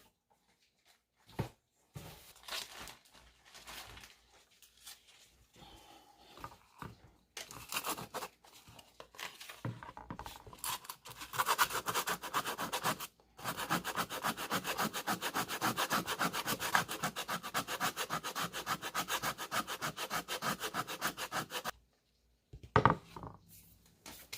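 Hand rubbing or scraping on a surface: irregular strokes at first, then a fast, even run of strokes lasting about eight seconds that stops abruptly. A single knock follows near the end.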